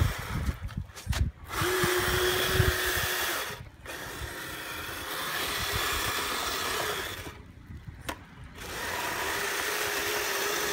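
Electric motors and gearboxes of a Kyosho Blizzard RC snowcat whirring under throttle as it drives its tracks through slushy snow. The motors cut out briefly about 4 seconds in, and again for about a second near the 8-second mark, before starting up again.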